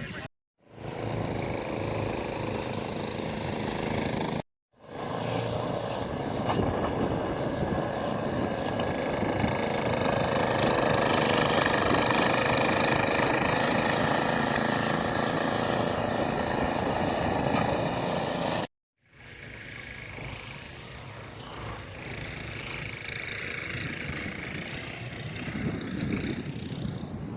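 Engines running with a steady drone and hiss, in three stretches broken by abrupt cuts; the middle stretch is the loudest, the last one quieter.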